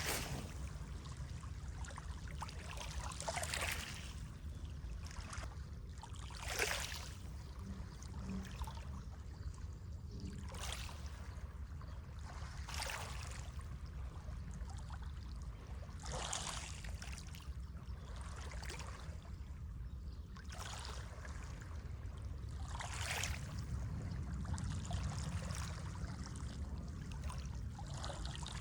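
Moving water with a steady low rumble, and a short splashing swell every few seconds.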